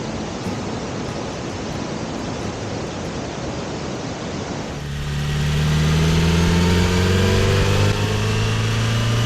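A steady rushing noise, then about five seconds in an abrupt change to the Kawasaki Z900RS's inline-four engine running, its pitch rising gently as it pulls away.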